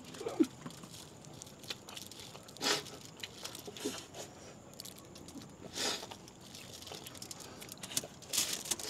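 Quiet eating sounds: crunching and biting with small clicks, and a few short hissy bursts about three seconds apart.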